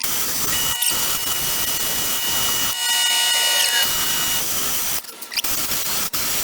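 High-speed rotary grinder cutting into an aluminum intake manifold while porting it: a steady whine over a harsh grinding noise, dropping out briefly about a second in and twice near the end.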